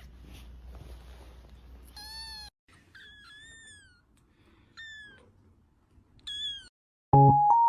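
A cat meowing four times in short, high calls that rise and fall in pitch, over a faint low hum. Near the end, loud bright jingle music starts.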